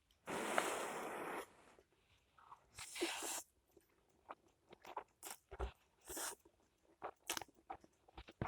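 Close-miked mukbang eating of instant hot pot noodles. A long slurp of about a second comes near the start and a shorter one around three seconds in, followed by soft chewing with wet mouth clicks and smacks.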